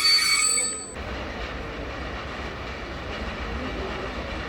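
Train wheels squealing on the rails, several steady high tones that cut off abruptly about a second in. After that only a quieter, steady low rumble remains.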